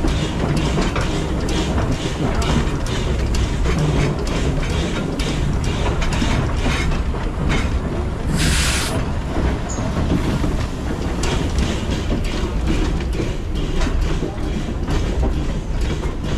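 Heritage steam train carriage running along the track: a steady rumble with rapid clicking and rattling of the wheels over the rails. A brief hiss comes about eight seconds in.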